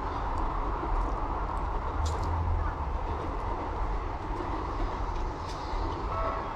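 Steady low rumble of passing vehicles, with a few light clicks; near the end a repeating electronic tone starts.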